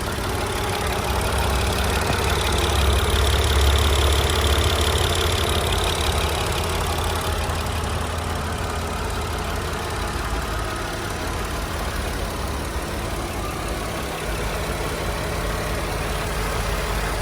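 A 2002 Mercedes SLK32 AMG's supercharged 3.2-litre V6 idles steadily and smoothly, heard with the hood open. For a few seconds, about two seconds in, it swells slightly louder and a high whine joins it.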